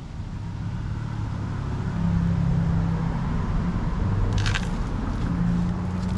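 A motor running with a low, steady hum that shifts in pitch and gets louder over the first two seconds. A short crackle comes about four and a half seconds in.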